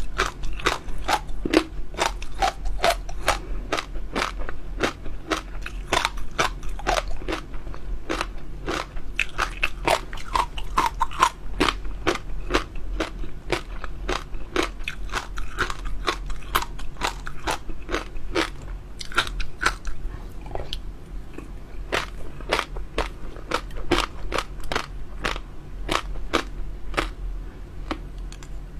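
Close-miked chewing of crunchy jelly pearls filled with water chestnut: a dense, irregular run of crisp crackles and crunches, several a second.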